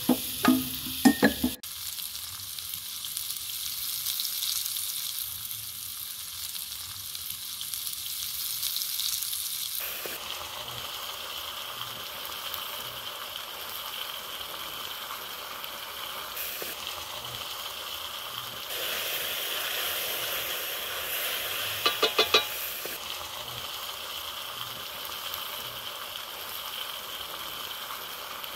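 Sliced vegetables sizzling as they are stir-fried in a hot wok with a wooden spatula, a steady frying hiss. A few sharp knocks right at the start and a quick run of about five clicks later on stand out above it.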